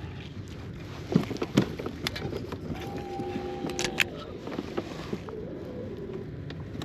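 Handling noises from landing a small fish in a kayak: scattered light clicks and knocks over a steady low background, with a short steady tone about three seconds in.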